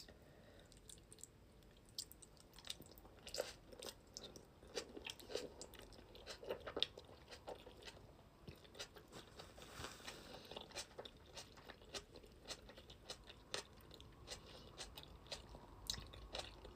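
A person chewing food close to the microphone: many small, irregular crunches and wet mouth clicks.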